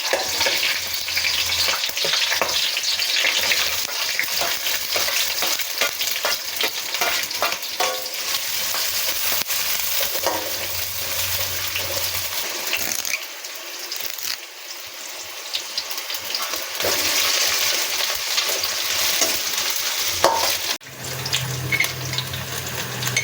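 Onion, green chillies and curry leaves frying in hot oil in a kadai, sizzling steadily while being stirred with a spatula that scrapes and clicks against the pan. The sizzle drops off for a few seconds about halfway, then picks up again.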